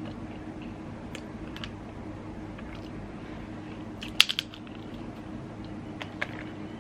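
Sharp clicks and cracks of snow crab shells being handled and broken while eating, a few scattered ones and a cluster of them about four seconds in, over a steady low hum.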